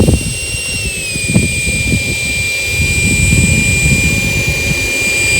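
Electric ducted fan of a Freewing 90mm F-22 Raptor RC jet running with a steady high whine. Its pitch eases down a little about a second in, then holds.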